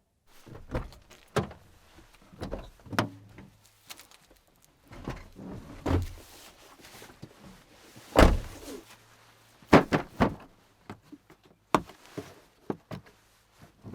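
A series of irregular knocks and thunks of things being handled or shut, the loudest about eight seconds in and two close together near ten seconds.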